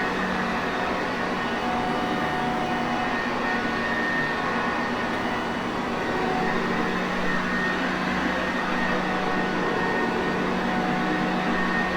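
Sanitaire Perfect upright vacuum cleaner running steadily: a constant motor hum under a rush of air, with no change in level.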